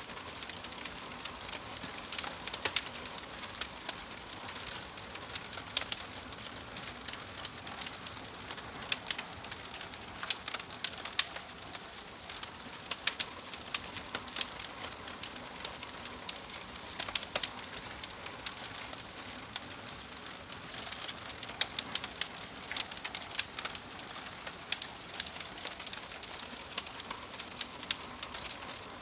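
Fire crackling: a steady hiss with irregular sharp pops and snaps throughout.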